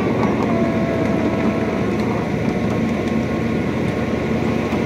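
Miniature ride-on train rolling along its narrow-gauge track: a steady rumble of wheels on rails.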